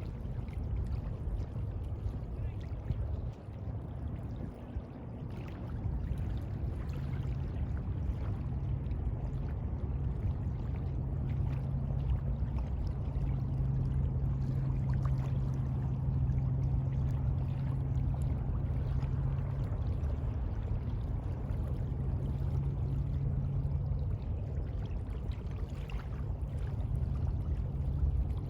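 Seawater washing and splashing, with a steady low hum through the middle.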